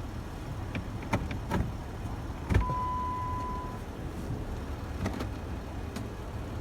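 Truck rumbling over rough ground, heard from inside the cab, with scattered knocks and a louder clunk about two and a half seconds in. Right after the clunk a steady beep sounds for about a second.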